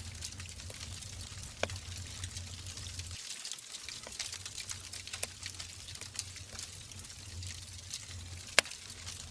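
Wood logs burning in a fireplace: a steady hiss with scattered crackles and pops, one sharp, loud pop near the end.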